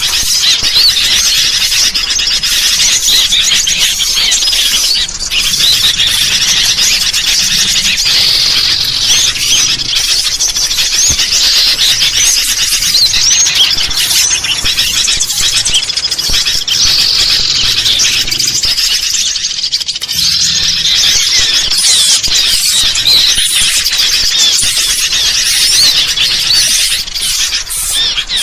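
A dense, unbroken chorus of high, squeaky chirps and twittering calls from many small birds, with sooty-headed bulbuls calling noisily among them: a bird-lure call mix for drawing in small birds.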